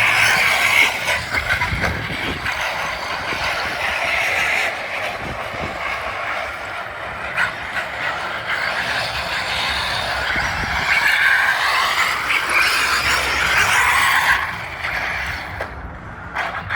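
Electric radio-controlled car being driven, its motor and gears whining up and down with the throttle over tyre noise.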